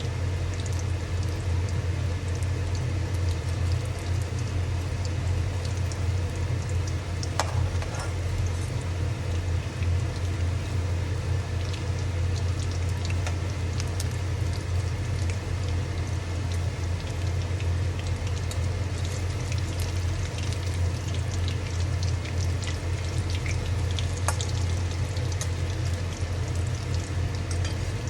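Battered fish pakoras deep-frying in hot oil, with a steady sizzle and scattered small crackles, over a constant low hum.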